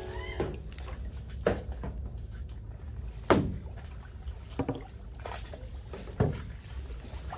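Kayak paddle strokes: about four sharp knocks or splashes roughly a second and a half apart, over a low steady rumble.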